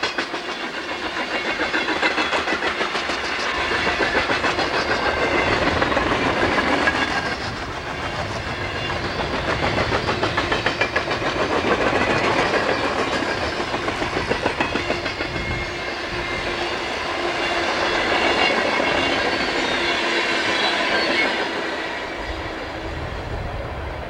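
Freight train's open-top hopper cars rolling past close by: steel wheels clicking in a steady rhythm over rail joints, with a continuous rumble and rattle of the cars.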